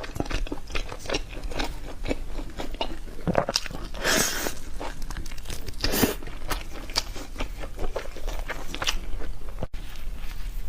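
Close-up eating sounds: a person biting and chewing crunchy food, with many quick, irregular crunches and two louder bites about four and six seconds in.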